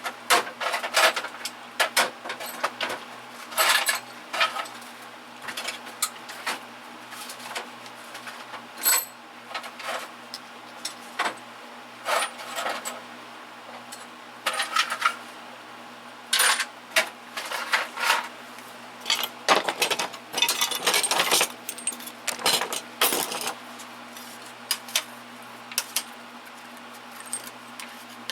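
Small metal tools and parts clinking and clattering against each other and the metal drawers as they are handled and dropped in, in irregular clusters of sharp clicks.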